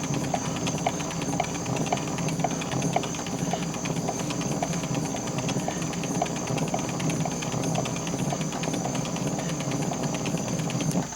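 Hand-cranked spring motor of a Victor III phonograph being wound up: rapid, steady ratchet clicking with a regular tick about twice a second, stopping at the very end.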